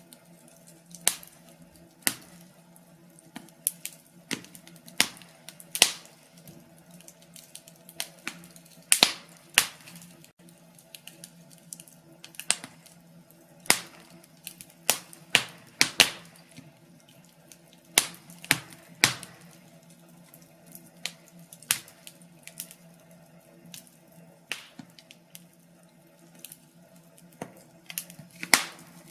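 Wood fire crackling in a fireplace: irregular sharp pops and snaps, some close together, over a faint steady low hum.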